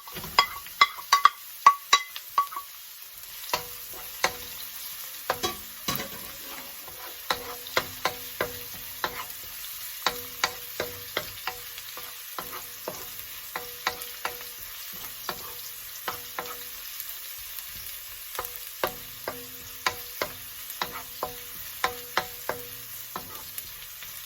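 Garlic sautéing in hot cooking oil in a frying pan: a steady sizzle, with a cooking utensil clicking and scraping against the pan as it is stirred. The first two seconds hold a quick run of ringing metal taps; after that the clicks come about once or twice a second.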